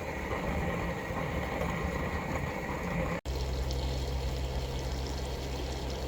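Stovetop coffee percolator perking on a camp stove, a steady bubbling and trickling. About three seconds in, the sound cuts off abruptly and is replaced by a steady low hum.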